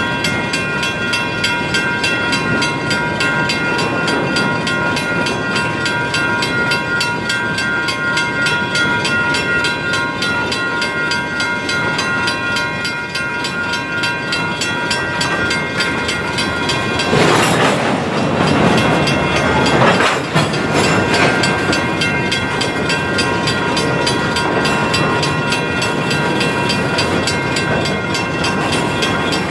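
Side-dump ballast gondolas rolling slowly past, steel wheels clacking over the rail joints with a steady high metallic squeal over the rumble. The squeal fades about halfway through, and a louder surge of noise rises about two-thirds of the way in.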